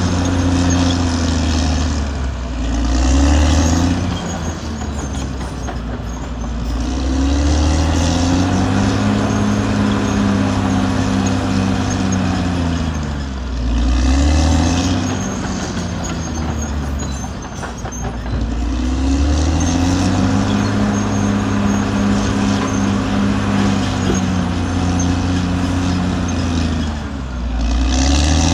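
Caterpillar D6R XL bulldozer's diesel engine running loudly and continuously, its pitch sagging and rising again every several seconds as the machine works.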